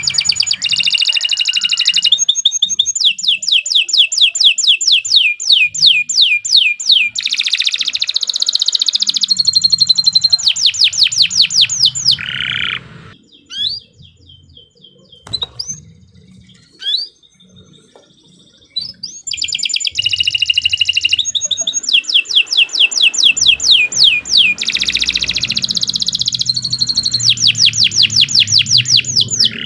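Domestic canary singing long, loud trills of rapidly repeated high notes in phrases. The song breaks off about halfway through for a few seconds of scattered single notes, then starts again.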